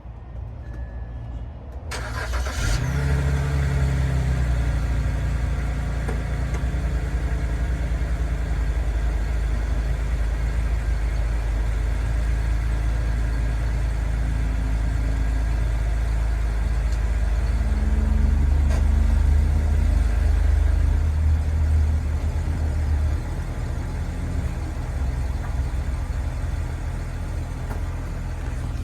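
2006 BMW 325xi's straight-six engine cold-started: a short crank about two seconds in, catching at once, then a steady, smooth fast idle that eases slightly lower past the middle.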